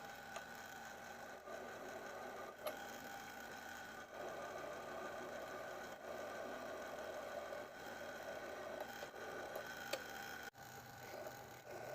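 A workshop power tool's electric motor running steadily, with a few sharp metallic clicks. The sound breaks off briefly near the end and then carries on.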